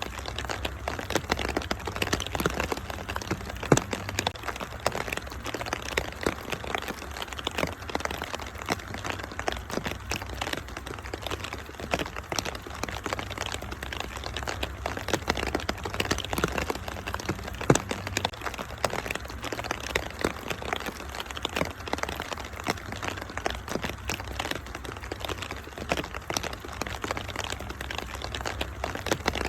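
Wood fire in a fireplace crackling and popping in a dense, irregular patter, with a few sharper pops, over a steady rain-like hiss and a low rumble.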